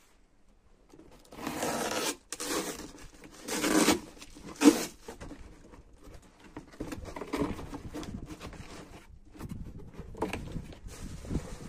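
Handling noises: bursts of rustling and rubbing, a sharp knock about four and a half seconds in, then softer scraping and rustling.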